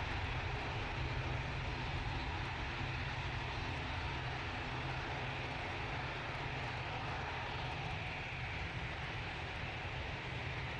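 Airliner engines running with a steady, continuous noise that eases slightly in level, heard near a runway during a departure.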